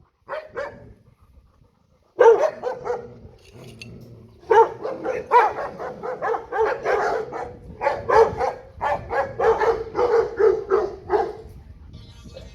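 Dogs barking in quick runs of short barks: a brief run about two seconds in, then a long run of steady barking from about four and a half seconds until near the end.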